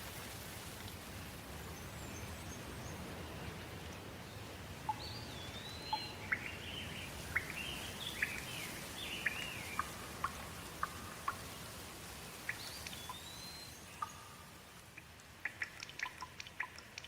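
Steady rain with birds calling over it: a run of whistled calls that slide up and down starts about five seconds in. Near the end the rain hiss eases and short, sharp ticks take over.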